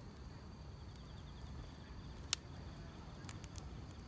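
Burning firewood crackling, with scattered sharp pops and one louder snap a little past halfway, over a low steady rumble. Grass insects keep up a steady high chirring throughout.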